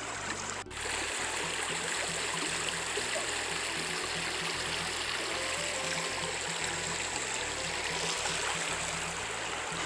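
Cold mountain stream water rushing and trickling steadily, with a brief break under a second in. Quiet background music runs underneath.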